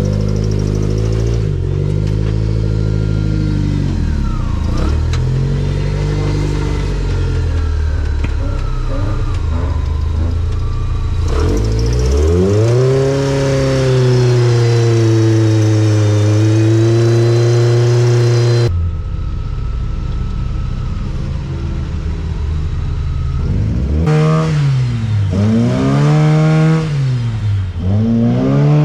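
Off-road rig engines revving, rising and falling repeatedly, with a long stretch held at high revs near the middle. The sound changes abruptly three times, at cuts between clips.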